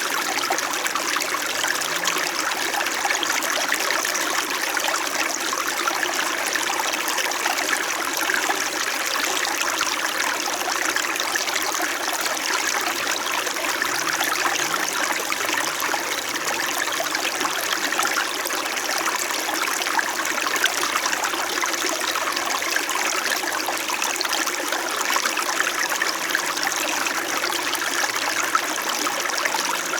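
Small shallow stream flowing and babbling over rocks, a steady, even gurgling rush of water.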